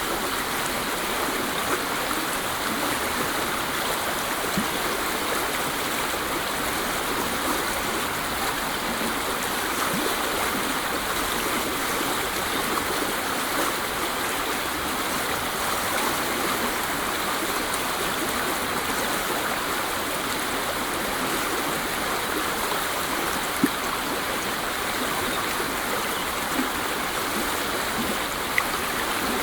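Waterfall: water falling and rushing in a steady, even hiss, with a few faint brief ticks near the end.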